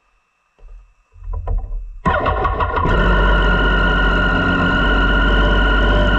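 Triumph Street Triple's three-cylinder engine breathing through a Dominator GP aftermarket exhaust being started: a low rumble as it turns over, then it catches about two seconds in with a sudden loud burst and settles into a steady, loud idle.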